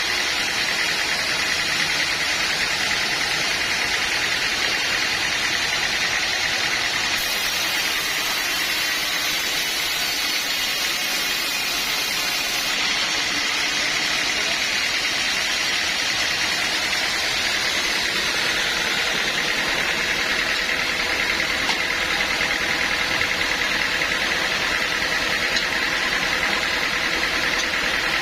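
Sawmill machinery running steadily and without a break: an engine-driven saw with a continuous whine over the engine noise.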